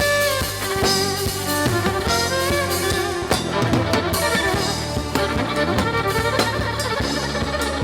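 Live afro-fusion band playing an instrumental passage: drum kit keeping a steady beat over bass and layered instruments, with a held note fading out just after the start.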